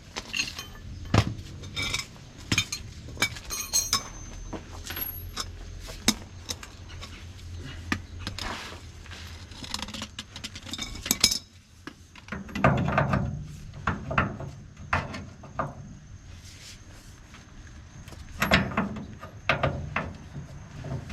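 Metal hand tools clinking and knocking against metal: irregular sharp clicks, some with a short ring, and a couple of louder rough stretches past the midpoint, as the leaf-spring nuts and bolts are worked loose.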